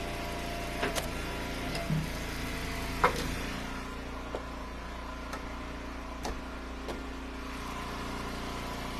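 Eastonmade Ultra wood splitter's engine running steadily, with a few short, sharp knocks of split firewood pieces being handled and dropped, the loudest about three seconds in.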